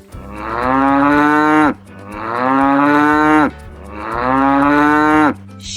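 Cow mooing: three long moos in a row, each dropping in pitch at its end.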